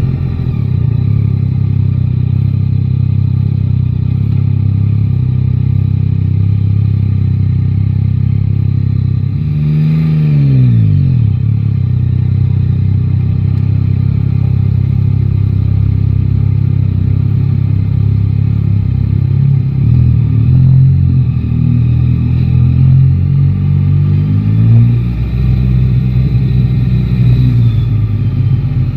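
Three-cylinder motorcycle engine running under way in city traffic, its pitch rising and falling with throttle and gear changes. About ten seconds in, the pitch sweeps sharply down, and it climbs in steps again later as the bike accelerates through the gears.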